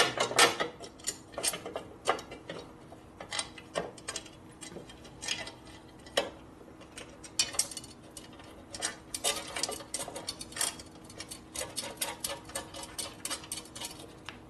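A ratchet wrench clicking in short irregular runs as bolts are run into the motorcycle fork, with light clinks of metal hardware.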